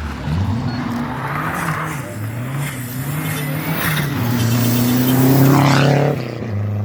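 Rally car engine under hard acceleration, its pitch climbing and dropping several times through gear changes, loudest about five seconds in.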